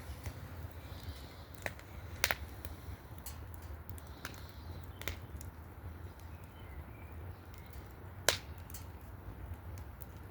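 Small wood fire in a fire basket crackling, with scattered sharp pops; the two loudest come about two seconds in and near the end, over a low steady rumble.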